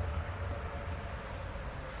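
A tram rumbling past on city street tracks, its low rumble and faint whine fading away as it moves off.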